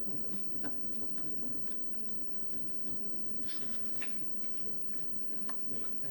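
Irregular short scratches and light taps of a hand tool working on paper, making a paper star, over a steady low hum.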